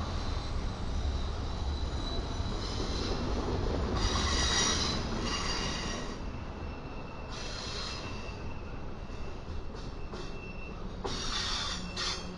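Cars of a freight intermodal train rolling past with a steady low rumble, while steel wheels squeal against the rails, high-pitched and on and off, loudest about four to six seconds in and again near the end.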